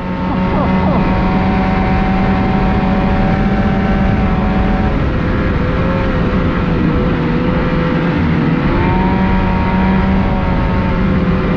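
2019 Ski-Doo Renegade 600R's two-stroke twin engine running steadily at low trail speed, its pitch sagging slightly midway and picking up again near the end, over rushing track and wind noise.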